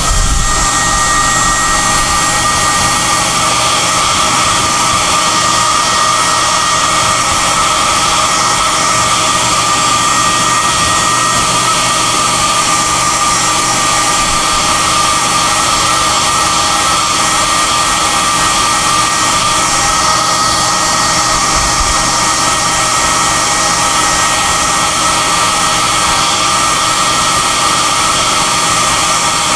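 SOUNATE high-airflow hair dryer (XM-H008/YX-HM008-G) running steadily: a constant rush of air with a high whine held at one pitch.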